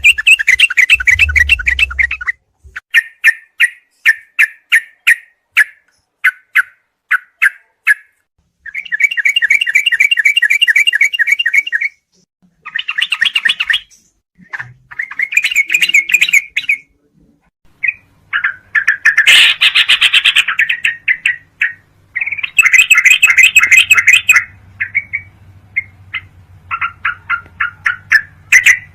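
Yellow-vented bulbul (trucukan) song: bursts of rapid chirps and trilled phrases separated by short pauses, with a harsher, noisier call around twenty seconds in.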